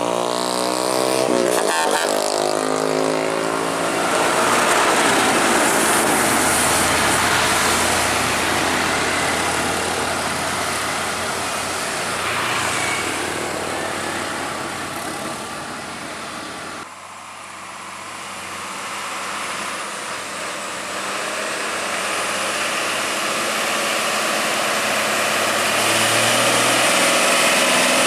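Heavy trucks' diesel engines and tyres going by one after another on a steep hill road. The sound drops suddenly about seventeen seconds in, then builds up again, with an engine note clear near the end.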